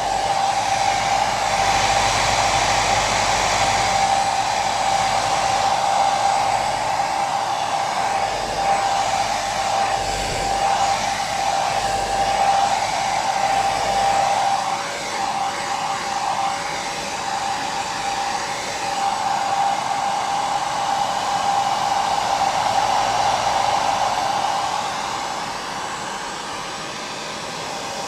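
Hair dryer running continuously: a steady rush of blown air with a high motor whine that wavers slightly about halfway through.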